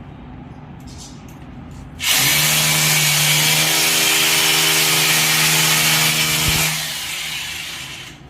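Electric power drill starting about two seconds in and running at a steady speed for about four and a half seconds, then winding down and fading out.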